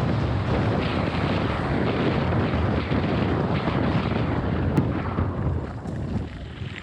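Wind buffeting the microphone as the modified Razor MX6000 electric dirt bike is ridden at speed, easing somewhat about five seconds in.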